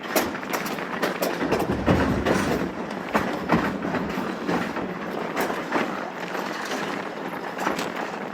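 Railroad car rolling on track, with a steady rumble and irregular clicking and clanking of wheels over the rails. A brief heavier low rumble comes about two seconds in.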